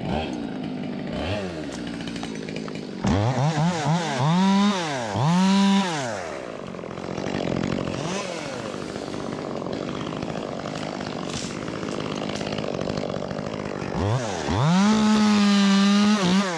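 Ported Echo 25T two-stroke top-handle chainsaw idling, blipped up to high revs several times in quick succession about three seconds in, then opened to full throttle and held for about two seconds near the end.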